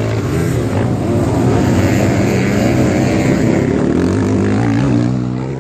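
Motocross motorcycle engines running hard at high revs, several overlapping engine notes rising and falling together.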